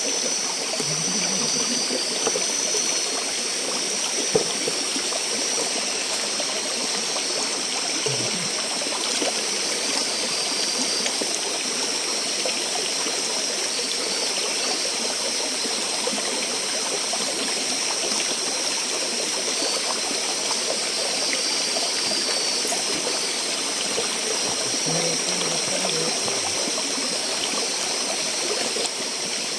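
Small forest river flowing steadily, with a steady high-pitched whine running above the water.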